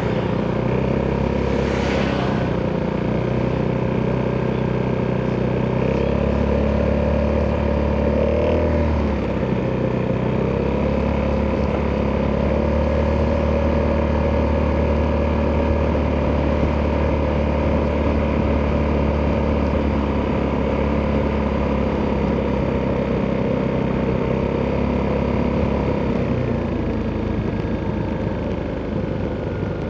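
Italjet Dragster 200 scooter's single-cylinder four-stroke engine running through an Akrapovic exhaust at a steady cruise, with small rises and dips in revs. The revs ease off near the end.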